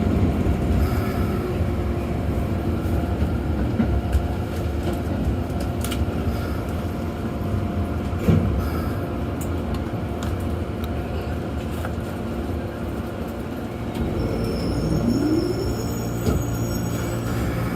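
Interior running noise of a Keikyu 1500 series train, a field-chopper-controlled electric multiple unit, slowing on the approach to a station: steady wheel and rail rumble with a single knock about halfway through. Near the end a rising whine comes in and settles into a steady electrical hum.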